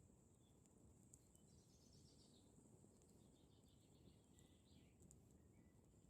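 Very faint forest ambience: distant birdsong in two short trilling phrases over a low rumble, with a few faint crackles from a wood campfire.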